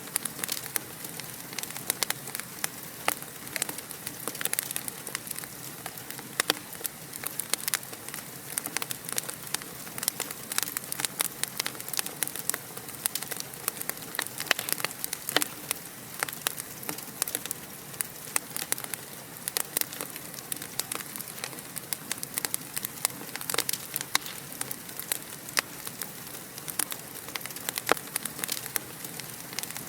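Wood fire crackling in a fireplace: a steady hiss with many sharp, irregular pops and snaps.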